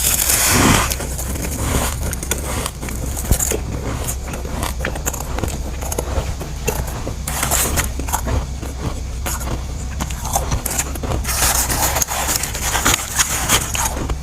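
Powdery freezer frost being scraped and crunched in a dense run of small crackling, squeaky clicks, with louder noisy rushes about seven seconds in and again near the end.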